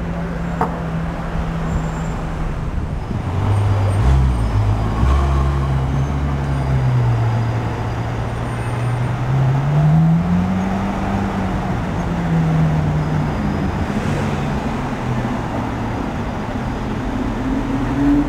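Ferrari F12 Berlinetta's V12 engine running at low revs in slow city traffic, its note dropping lower a few seconds in, then rising in pitch as the car accelerates about ten seconds in, before settling again. Traffic noise runs underneath.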